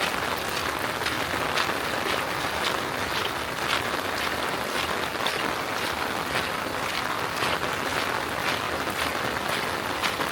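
Steady rain falling, with many sharp drop taps scattered through it, several a second.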